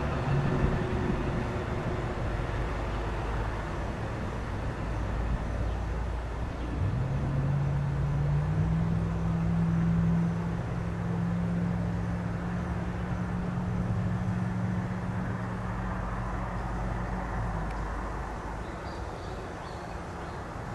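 Steady vehicle rumble with an engine hum that comes in about seven seconds in, rises a step in pitch a moment later, and stops near the end.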